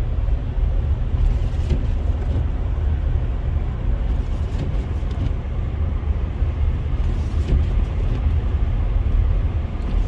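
Steady low road rumble heard inside a moving car: its engine and tyres running on a snowy highway.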